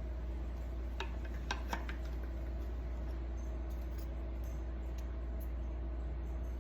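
A steady low hum with a faint steady tone above it, and a few light clicks and clinks about one to two seconds in, as of small parts or tools being handled.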